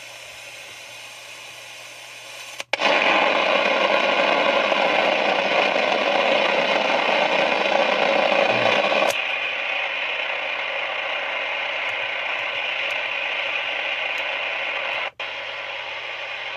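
Sony ICF-2001 shortwave receiver's speaker hissing with static and band noise, the radio just brought back to life on batteries. The hiss cuts out for an instant about three seconds in, then comes back much louder. It drops to a lower level around nine seconds, with another brief cutout near the end.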